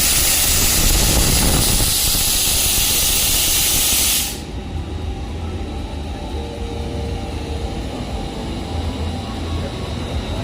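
A loud, even hiss, like a jet of gas or fog being blown, that cuts off sharply about four seconds in, leaving a steady low rumble.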